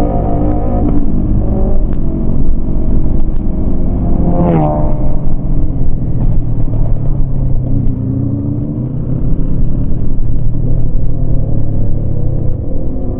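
Yamaha MT-25 parallel-twin motorcycle engine running under way, with wind rumble. About four and a half seconds in its pitch drops sharply, it eases off around eight seconds, then it pulls harder again.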